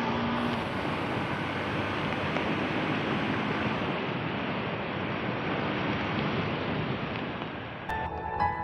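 Steady rush of wind buffeting the microphone on a moving motorcycle. Music begins near the end.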